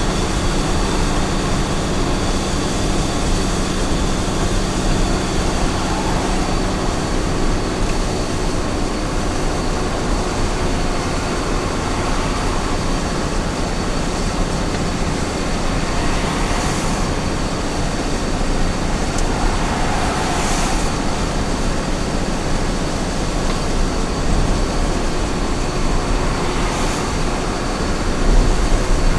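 Small truck's engine and road noise cruising steadily at highway speed, with three brief rushes of higher noise about halfway through and near the end.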